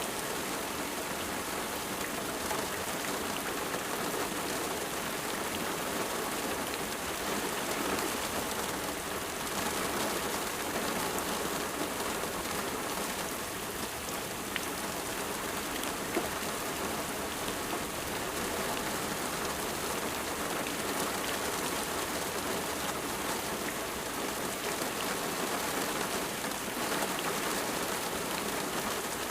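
Steady rain falling, an even hiss of drops with fine patter on a surface.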